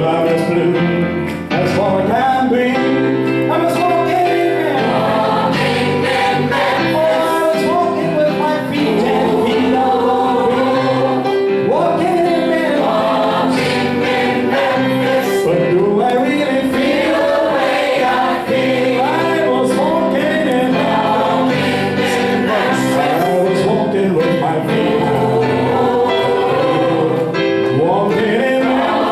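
A gospel choir singing a song, many voices together over instrumental accompaniment, steady and full throughout.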